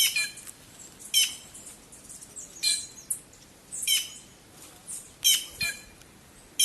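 A flock of white-naped jays (cancão) giving short, loud alarm calls, about one a second. They are mobbing something hidden in the foliage, which may be a snake.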